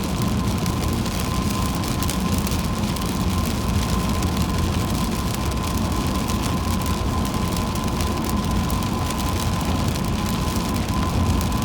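Car driving in heavy rain, heard from inside: a steady hiss of rain on the car and tyres on the wet road over a low road rumble, with a faint steady high tone running along.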